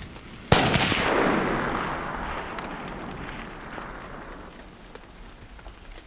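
A single long-range rifle shot about half a second in, followed by a long rolling echo that fades away over about four seconds.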